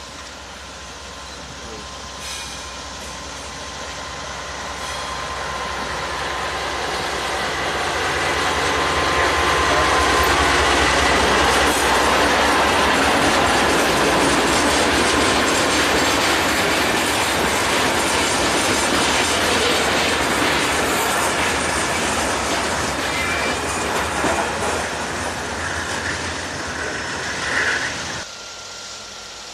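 Diesel-powered Norfolk Southern freight train approaching and passing close by: the sound grows steadily louder over about ten seconds as the locomotive nears, then the wheels of tank cars and covered hoppers run along the rails. It cuts off suddenly near the end.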